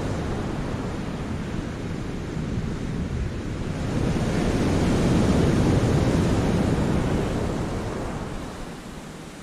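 Sea waves breaking and washing over the rocks of a cove. The surge swells about four seconds in, then eases off near the end.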